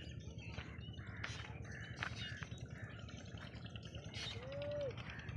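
Birds chirping and calling with many short, quick notes, and one longer rising-and-falling whistled note about four seconds in, over a steady low rumble.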